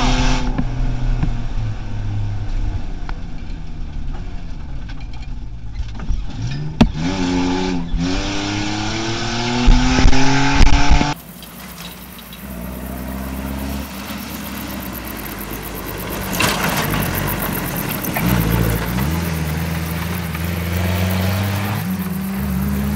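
Off-road rally 4x4 engine heard from inside the cabin, revs rising and falling through gear changes, with loud jolts from the car crashing over bumps about ten seconds in. After a sudden cut, an off-road 4x4 engine is heard from outside as the car drives across a field, its revs climbing near the end.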